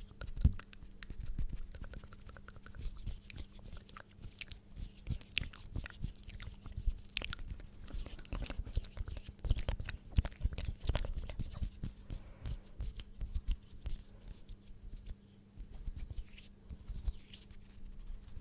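Close-miked ASMR trigger sounds: a dense, irregular run of soft clicks, crackles and low thumps right at the microphone, over a faint steady hum.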